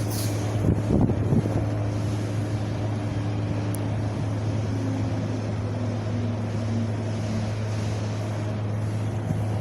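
Wind blowing and buffeting the microphone over a steady low rumble, with a stronger gust about a second in. A faint tone sits underneath and drops a little in pitch midway.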